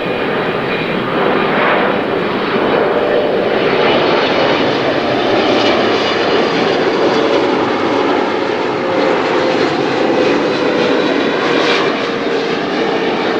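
Boeing 777-300ER's GE90 jet engines as the aircraft comes in to land, a loud steady jet rumble with a whining tone. In the second half the tone sinks slowly in pitch as the aircraft passes.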